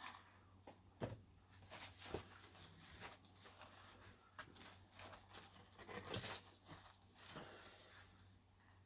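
Faint crinkling and tearing of food packaging being pulled open, with scattered small clicks and crackles.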